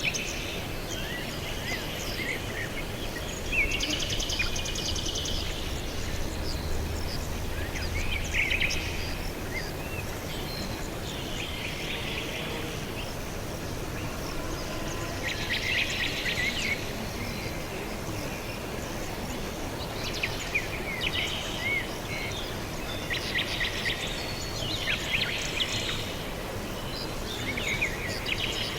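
Several small birds chirping, with bursts of rapid repeated-note trills every few seconds, over a steady background hiss.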